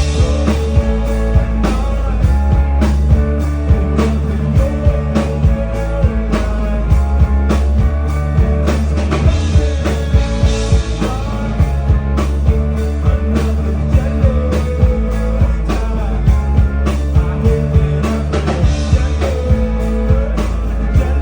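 Live rock band playing loudly: electric guitar, bass and drum kit with a steady beat, in an instrumental passage between sung lines.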